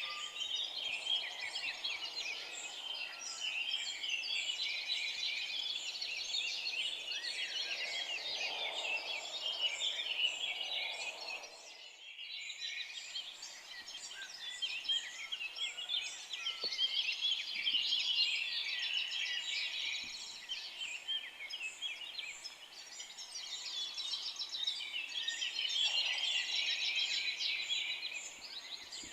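A dense chorus of many forest songbirds chirping and trilling at once, with a short drop in level about twelve seconds in.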